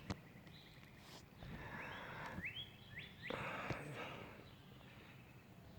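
A songbird calling with a run of short, quickly rising chirps, repeated several times, over two swells of rushing noise; a sharp click right at the start.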